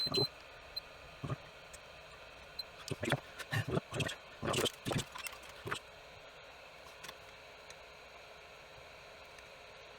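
Small tools and parts being handled at a workbench during desoldering of MOSFETs from a circuit board: a run of short clicks, taps and scrapes, bunched together from about three to six seconds in, with a few isolated clicks around them.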